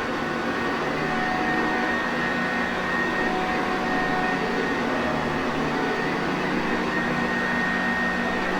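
Sanitaire vacuum cleaner running steadily: a constant rush of air with a steady motor hum and a few held higher tones, no change in speed.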